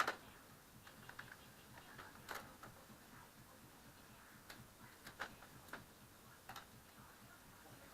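A handful of irregular light clicks and taps over a quiet background, the sharpest right at the start; no engine is running.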